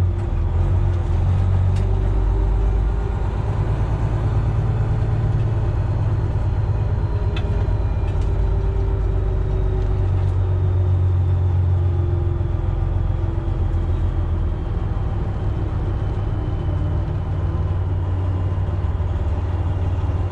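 Semi truck's diesel engine running steadily at low revs, heard from inside the cab as the truck creeps along at low speed, with a deep rumble and slight rises and falls in pitch.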